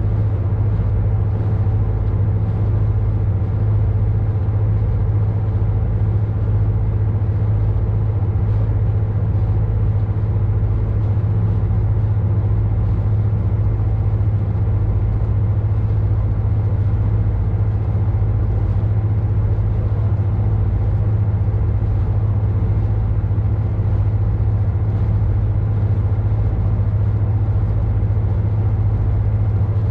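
A boat's engine running steadily: a constant low drone with a hum of several even tones that does not change.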